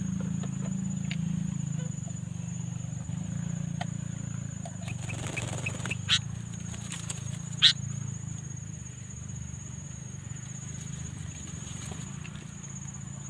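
Sooty-headed bulbul giving two brief sharp call notes, about six and seven and a half seconds in, over a steady low hum and a steady high whine.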